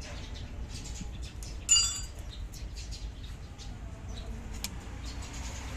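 Light metallic clicks and taps of hand tools on the valve rockers of an Isuzu 6HH1 diesel during a valve-clearance adjustment. About two seconds in there is one sharp, ringing metal clink.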